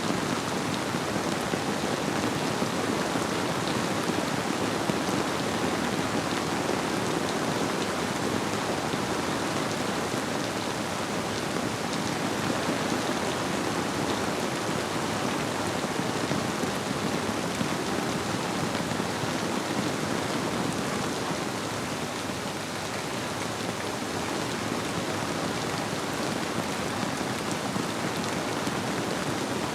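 Steady rainfall: a dense, even patter of drops hitting surfaces, blended with a flowing river. The level stays steady, easing slightly past the midpoint.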